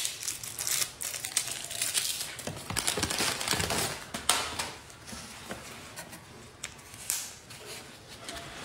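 Close crunching of stirred yogurt with crisp mix-in pieces being eaten, a dense crackle for about four seconds that then thins to scattered, quieter crunches.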